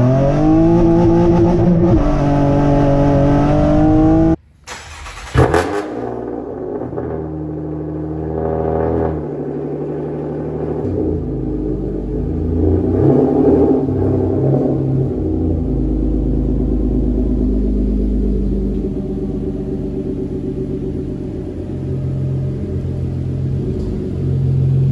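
Nissan Maxima's 3.5-litre V6 engine heard from inside the cabin, climbing in pitch under acceleration for about four seconds. After a sudden break, the engine fires up with one loud burst, its pitch wavers for several seconds, then it settles into a steady idle.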